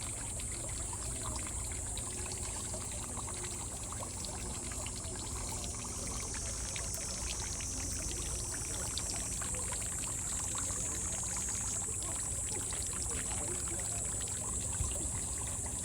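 Water pouring and trickling steadily, with many small splashing ticks and a steady high-pitched hiss over it.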